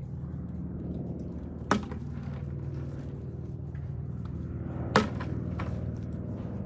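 Two sharp clicks about three seconds apart, with a few fainter ticks, over a steady low hum: snails being picked off the ground and dropped into a bucket.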